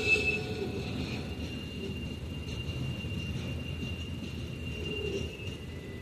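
Low steady rumble of the departing CSX freight train and waiting road traffic, with a faint steady high tone fading out.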